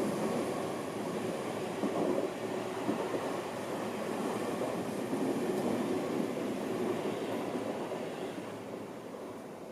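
Seibu Ikebukuro Line electric commuter train running past, with a steady rumble of wheels on rails that fades away near the end.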